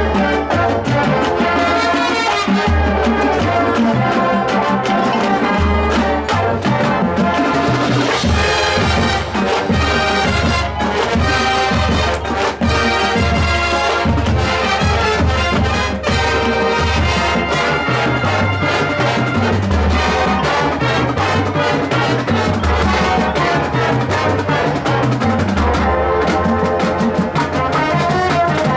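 High school marching band playing at full volume: a brass section carrying the tune over a steady beat from the drum line.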